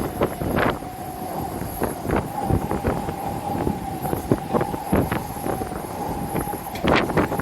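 Strong wind buffeting the microphone in gusts, over a steady whine from a jet airliner's engines that rises slightly in pitch near the end.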